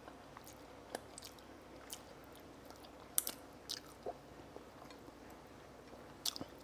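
A person chewing a mouthful of fried egg and tofu in chilli oil, quietly, with scattered short clicks and smacks.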